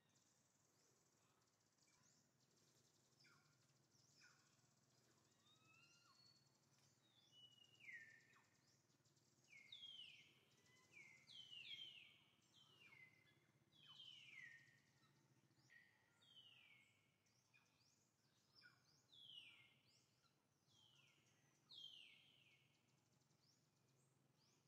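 Faint outdoor ambience with a bird giving a string of short whistled calls, each sliding down in pitch, repeated about a dozen times from about eight seconds in.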